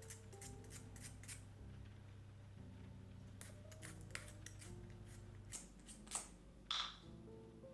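Cedar balls being polished by hand: a series of short, dry scraping strokes, the loudest about three-quarters of the way through, over soft jazz.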